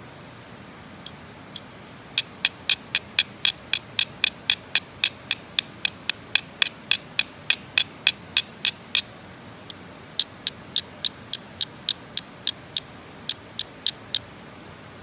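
Rapid sharp mechanical clicks, about three or four a second, in two runs with a short break between them.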